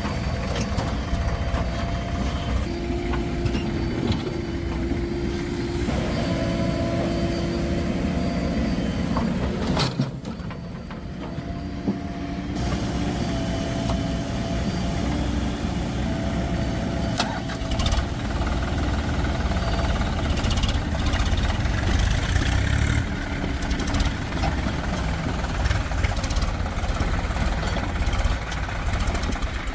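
Diesel engines of a JCB backhoe loader and tractor running steadily, with a whining tone that shifts in pitch a few times and occasional sharp knocks. The engine sound dips briefly about ten seconds in.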